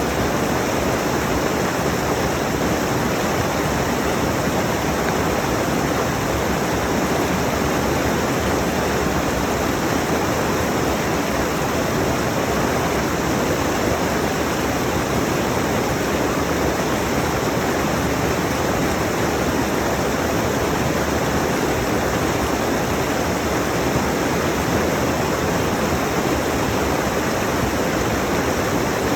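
Rushing mountain stream: a steady, even rush of water over rocks.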